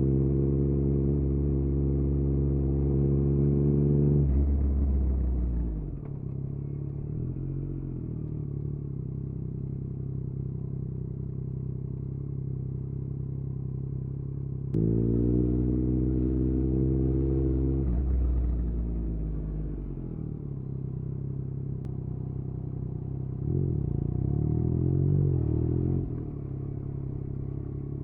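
Yamaha MT-09 three-cylinder engine through an Akrapovic exhaust, ridden in traffic: it runs loud under throttle, then eases off and drops its pitch to a low burble. About halfway through it pulls hard again with a sudden loud surge before dropping back, and there is a shorter rise in revs near the end.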